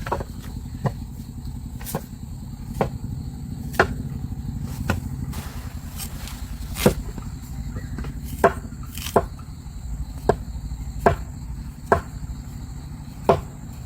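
Hammer strikes, about a dozen sharp blows roughly a second apart with one longer pause, over a steady low rumble.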